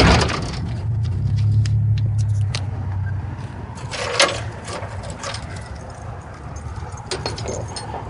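Step van's rear roll-up door and its latch being handled: a low rumble for the first few seconds, a sharp knock about four seconds in, then scattered metallic clicks of the latch and keys as the door is shut and locked.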